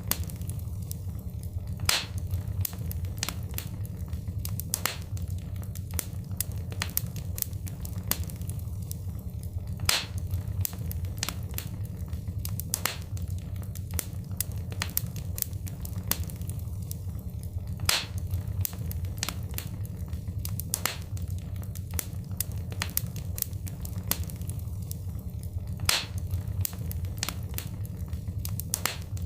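Wood fire crackling: many small snaps and a sharper pop every few seconds over a steady low rumble. The same pattern repeats about every eight seconds, as a looped recording does.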